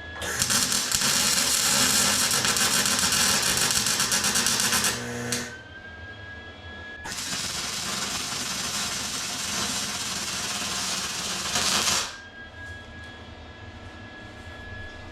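Welder arc crackling on steel in two runs of about five seconds each, a couple of seconds apart, each stopping abruptly: tack-welding a leg of a steel rail in place.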